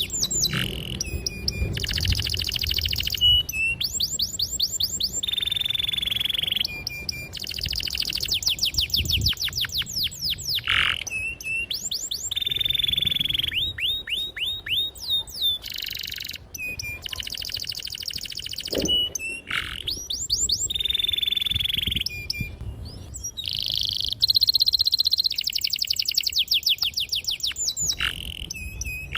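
Domestic canary in full song: a long, unbroken run of fast trills and rolling phrases with quick downward sweeps, switching to a new phrase every second or two.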